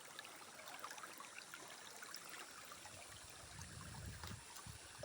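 Faint flowing floodwater, a steady trickling stream, with a brief low rumble about four seconds in.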